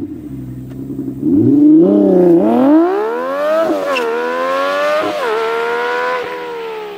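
Nissan 370Z's 3.7-litre V6 through an AAM short-tail exhaust, played back sped up so it sounds high-pitched like an F1 car. It idles for about a second, then revs up as the car accelerates hard away. The pitch climbs through the gears with a sudden drop at each upshift, about four times, and the sound fades near the end as the car gets farther off.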